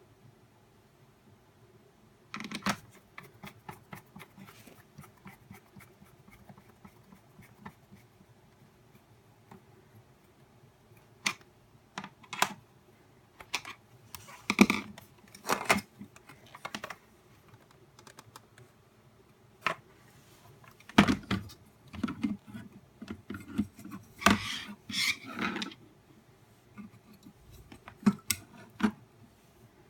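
Plastic casing and small parts of a nail dust collector being handled by hand: irregular clicks, taps and short clattering rattles, with two busier spells of handling near the middle and toward the end.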